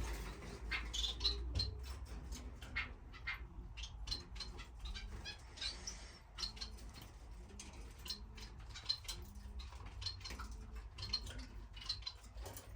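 A roomful of small finches, society finches among them, chirping with many short, high calls, over a low steady hum.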